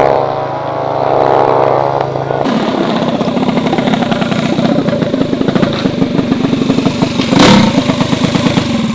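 Mini bike engines during a street drag race. A high-revving engine fades away over the first two seconds. Then a nearby mini bike engine runs with a quick, pulsing putter, with a brief loud burst about seven and a half seconds in.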